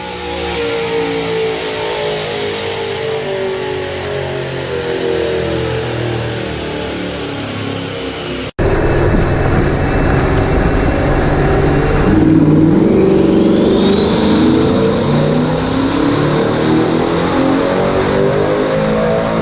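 Twin-turbocharged Mustang engine on a chassis dyno, loud. The revs fall for the first half. After an abrupt cut the engine pulls hard under load, its pitch climbing steadily, while a high turbo whine rises with it and then holds.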